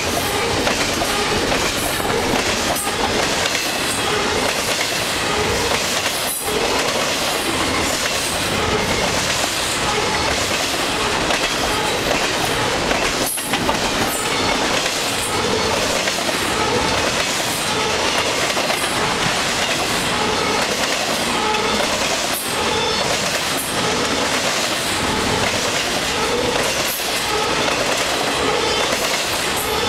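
Double-stack intermodal freight cars rolling past: steel wheels on the rails making a loud, steady rumble and clatter.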